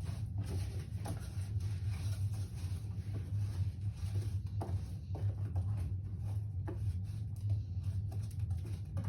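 Wet birdseed being stirred and scraped in a mixing bowl with a utensil: irregular small scratchy clicks over a steady low hum.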